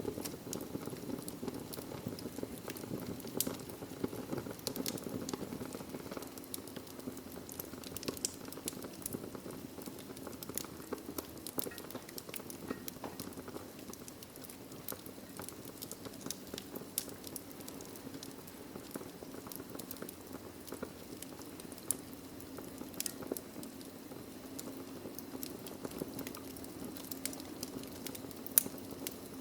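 Logs burning in a fireplace: frequent irregular crackles and pops over a steady low rush of the flames, with one louder pop near the end.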